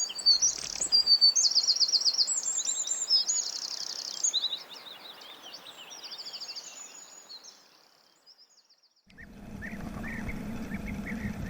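Small songbirds singing and chirping, with fast high trills, busiest in the first few seconds and fading out. About nine seconds in, after a short quiet gap, a steady low hum comes in with faint chirps over it. No low hooting of the kind a hoopoe makes is evident.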